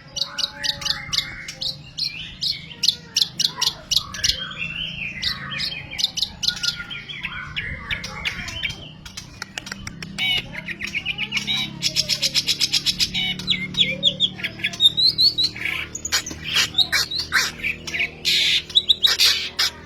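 Long-tailed shrike (cendet) singing a varied mimicking song: fast chattering notes, squawks and copied phrases of other birds. About twelve seconds in it runs into a fast, even trill.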